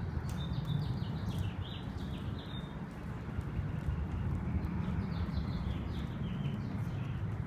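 A bird singing two phrases of quick, high, down-slurred notes, about five a second, the second phrase starting about five seconds in, over a steady low rumble.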